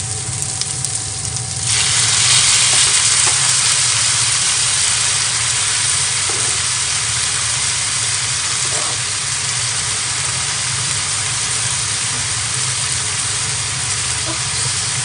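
Frying pan sizzling steadily; about two seconds in the sizzle jumps suddenly louder and brighter as the boiled fettuccine goes into the hot pan, and it keeps going.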